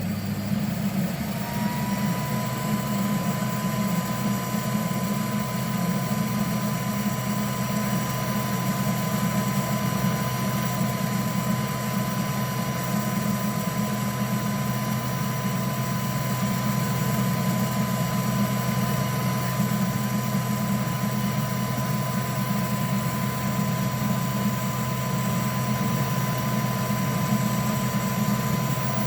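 3D printer running, with a steady hum of its fans and motors. About a second and a half in, a thin whine glides up and then holds at a steady pitch.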